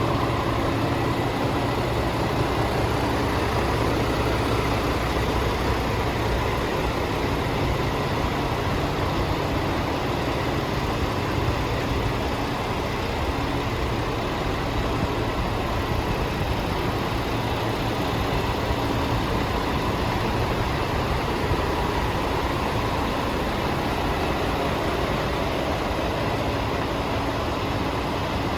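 Scania R450 tractor unit's 13-litre inline-six diesel engine idling steadily.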